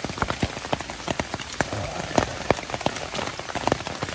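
Rain falling, with many separate heavy drops striking close by, several a second, over a steady hiss of rain.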